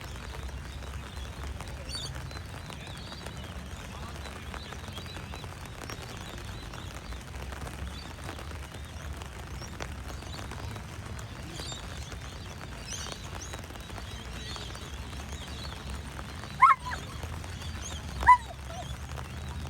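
A dog barks twice, about a second and a half apart near the end, each bark short and sharp. A steady low background noise runs under it.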